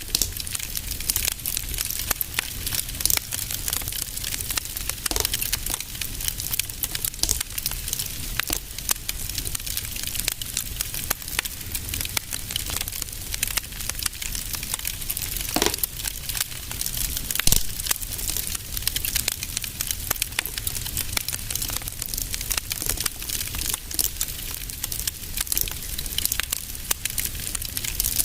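Wood fire crackling in a fireplace: a dense run of small crackles with a few louder pops, two of them a little past the middle, over a low rumble of the flames.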